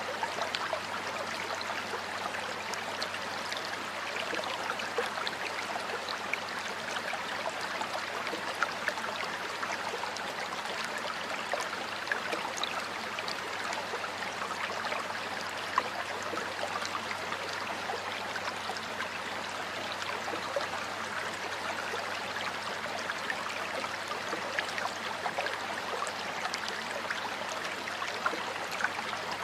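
Water flowing in a stream, a steady even rush with many small bubbling splashes throughout.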